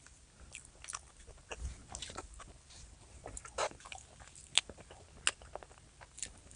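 Eating sounds: a person biting and chewing food, heard as a string of irregular short clicks with a few louder ones in the middle.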